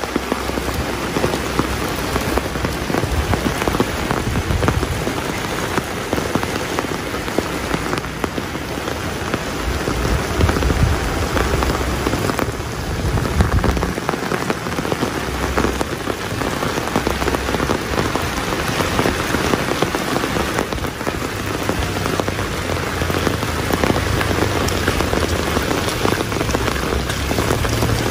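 Steady rain falling and pattering on surfaces, with low rumbles coming and going underneath.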